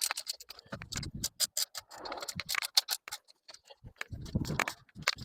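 Socket ratchet clicking in quick, irregular runs of ticks as bolts are tightened, with a few duller knocks of tool handling.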